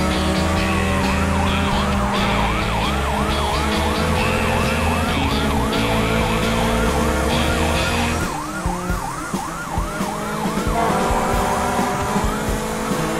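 Cartoon emergency-vehicle siren sound effect, a quick yelp that rises and falls over and over at an even pace, starting about a second in and stopping shortly before the end.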